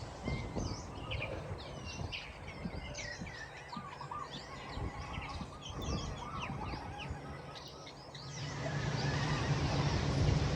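Small birds chirping in many quick, overlapping calls. From about eight seconds in, a low rumble builds and grows louder.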